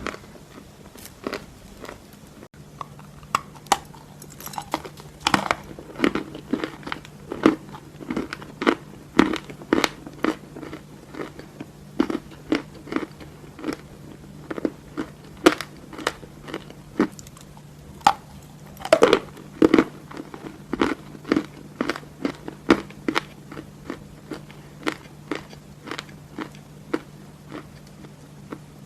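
Edible chalk being bitten and chewed close to the microphone: a steady run of dry, sharp crunches, about two a second, with a louder cluster of bites about two-thirds of the way through. A faint steady hum sits underneath.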